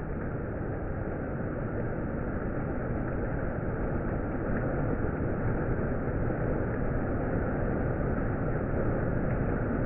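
Heavy monsoon rain pouring steadily, a dense even hiss that slowly grows a little louder.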